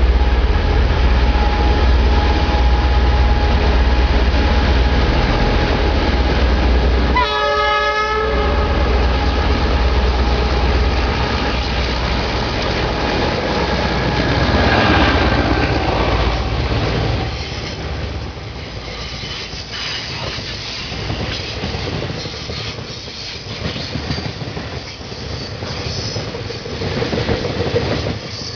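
DF4B diesel locomotive passing with a heavy engine rumble, sounding its horn once for about a second. The rumble fades after about 17 seconds into the rhythmic clatter of freight wagons rolling by.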